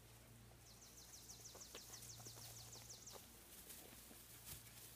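A faint songbird trill: one quick, even run of short downward-slurred high notes, about seven a second, lasting about two and a half seconds. A few faint clicks and taps are scattered over near-silent background.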